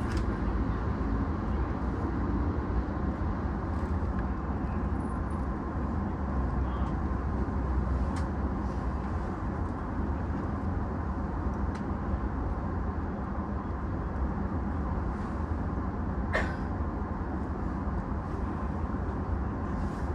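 Steady low hum and hiss inside a stationary E233-6000 series electric train, held during a safety check after an emergency stop. A single short click sounds about 16 seconds in.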